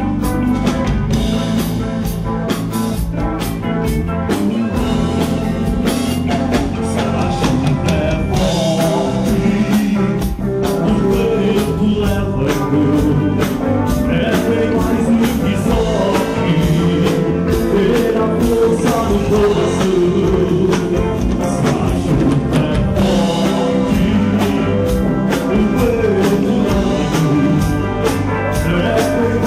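Live rock band playing: drum kit, bass and guitar, with singing.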